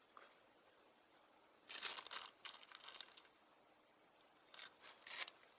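Packaging being handled: crinkling and rustling in short bursts, one stretch about two seconds in and another near the end.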